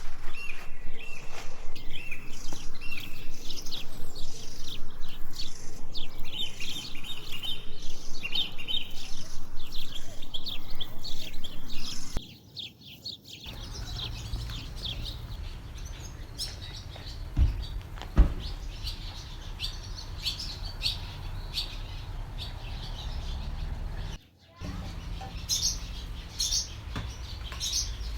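Small birds chirping, many quick high chirps, busy and louder for the first twelve seconds. After a brief break the chirps are sparser and quieter over a low steady rumble.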